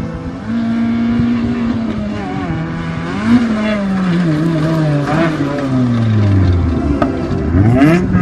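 A motor engine whose pitch falls slowly, as if easing off, then climbs quickly again near the end as it revs up.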